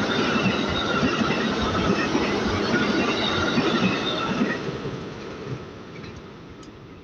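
A train passing close on the rails: wheels and running gear make a dense rumble with faint high steady squeal tones. It fades away from about four and a half seconds in as the train moves off.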